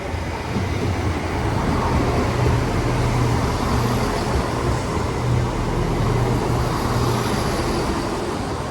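Chiltern Railways Class 168 diesel multiple unit running through the station, its diesel engines giving a steady low drone over loud rolling wheel and rail noise that eases off near the end.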